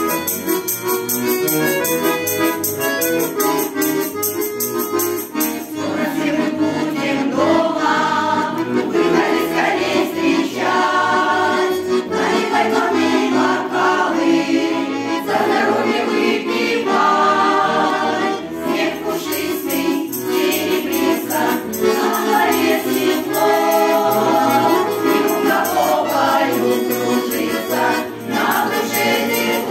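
Garmon (Russian button accordion) playing a Russian folk song, with a group of voices coming in singing about six seconds in.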